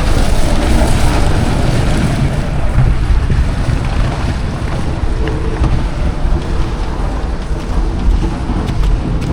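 Blizzard wind buffeting the microphone: a loud, steady rumbling rush.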